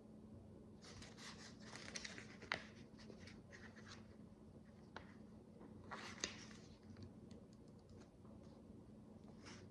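Faint rustling and scratching of tiny plastic micro bricks being handled and sorted, with a sharp click about two and a half seconds in and another about six seconds in.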